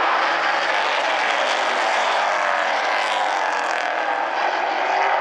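A pack of oval-track race cars running at speed, their engines sounding together at a steady level with pitches that rise and fall as they pass.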